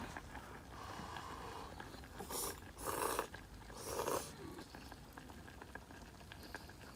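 A person eating hot nabe soup: three short, breathy slurps about two, three and four seconds in.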